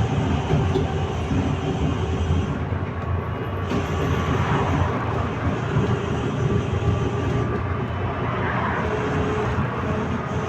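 Interior ride noise of a UTTZ-6241.01 trolleybus in motion: a steady rumble from the tyres and running gear, with a faint hum from the electric drive.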